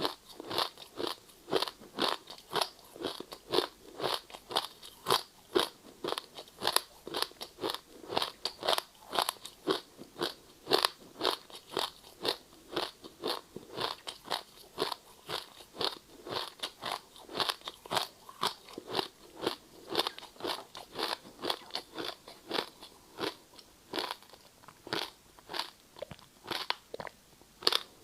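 Ice being bitten and chewed close to the microphone: a steady run of sharp, crackly crunches, about two to three a second.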